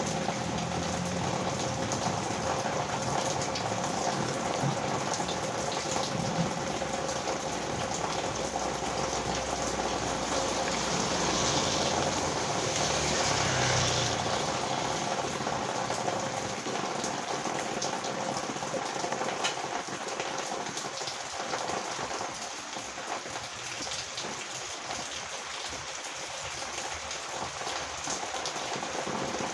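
Heavy rain pouring steadily onto a road and its surroundings, with a louder rushing swell about halfway through.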